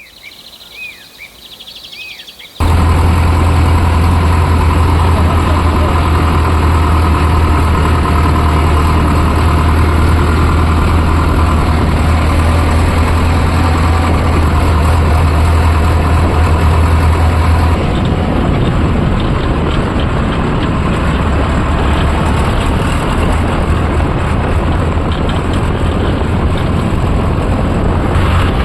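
Tractor diesel engine running steadily with a deep, loud drone, starting abruptly about two and a half seconds in after a quieter opening with a few short high chirps. The low drone eases a little past the halfway point but the engine keeps running.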